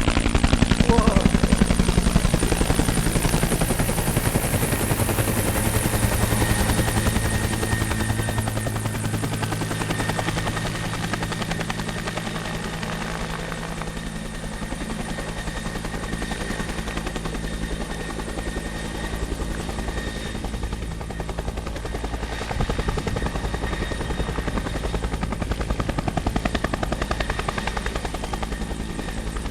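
Firefighting helicopter's rotor beating in a fast, steady pulse with engine whine, loud at first, easing off toward the middle, then growing louder again in the last third.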